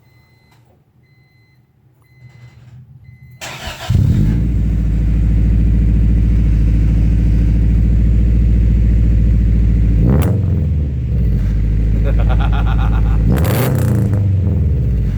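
A 1994 Acura Integra's B18B four-cylinder with an unequal-length header cranks over briefly and catches about 4 s in, then runs loudly with the uneven, Subaru boxer-like burble the header gives. It is revved twice near the end.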